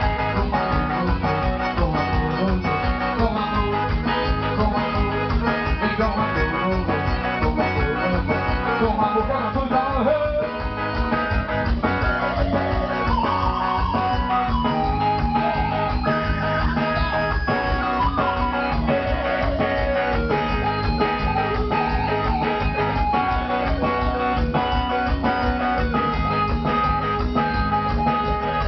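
Live band music with guitar leads over a steady, fast beat.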